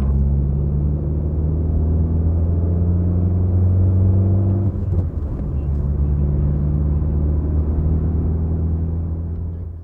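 Peugeot car engine running at a steady, even low hum, as when idling or holding a constant speed.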